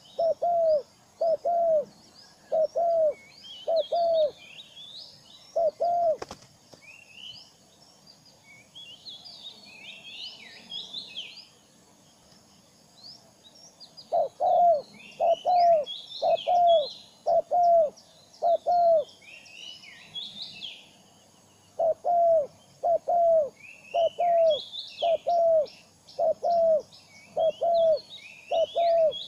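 Birds calling: runs of short, low calls at about two a second, which stop and start again twice, over continuous higher-pitched chirping.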